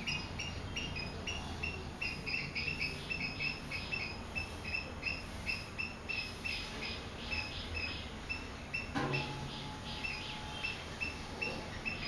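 Small bird chirping: a steady run of short, high chirps, about three a second. A single knock about nine seconds in.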